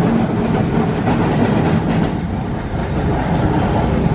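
Tram running along its rails, a steady rumble of wheels on track with occasional clicks and clacks, heard from inside the car.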